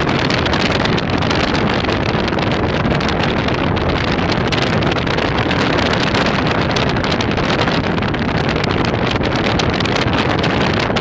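Strong storm wind rushing across the microphone, a steady loud roar of noise.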